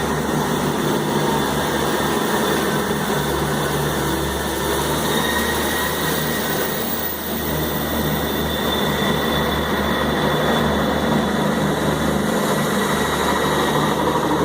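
Diesel engines of a British Rail Class 159 diesel multiple unit running with a steady drone as the train departs, with a few steady higher whines over it.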